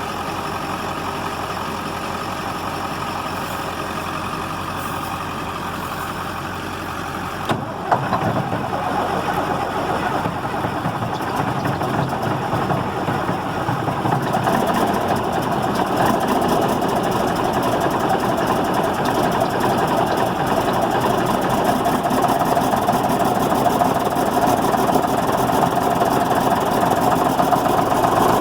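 Case 4890 tractor's Scania diesel engine on a cold start near freezing: it runs steadily at first, then a sharp clack about seven seconds in, after which the engine note turns fuller and grows gradually louder.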